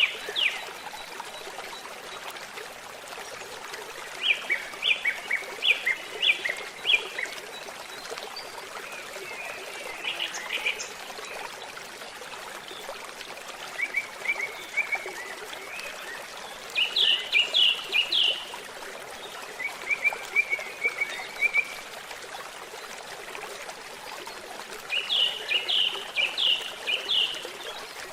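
Songbird singing in short phrases of quick, high notes repeated every few seconds, over the steady trickle of a flowing stream.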